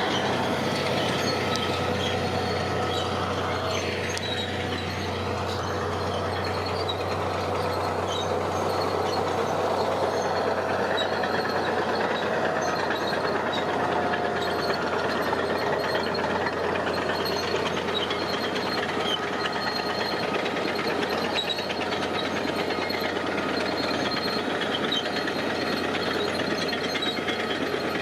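Heavy diesel construction machinery running steadily, with a constant low engine hum under dense mechanical noise. A brief falling-then-rising whine comes about four seconds in.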